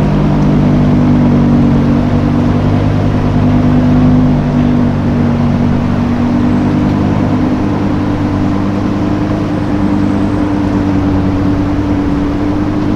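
A car engine running steadily at low revs, a deep even hum that holds its pitch without revving.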